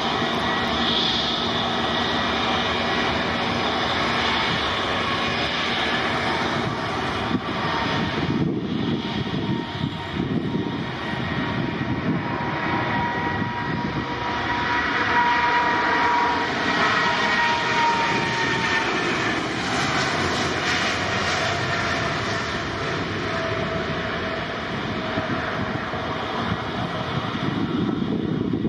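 Jet airliner taking off: loud, steady engine noise with a thin whining tone that slides slightly lower around the middle of the run as the aircraft passes.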